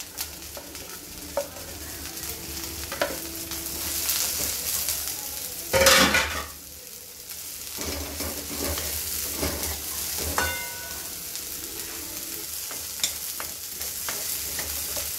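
Cubed ridge gourd sizzling in hot oil in a metal kadai while a wooden spatula stirs and scrapes it around the pan. About six seconds in there is one louder burst of noise.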